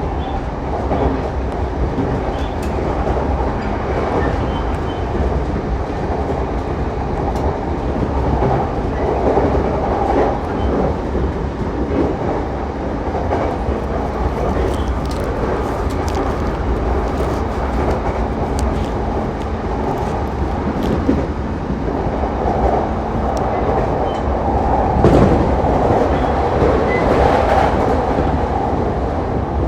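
Running noise inside a JR East Saikyō Line commuter train at speed: a steady rumble of wheels on rail, with light clicks over rail joints and one sharper knock late on.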